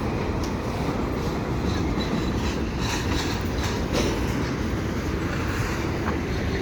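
Loaded double-stack container cars rolling slowly past on a shove move: a steady rumble of wheels on rail, with a run of sharp clicks about three to four seconds in.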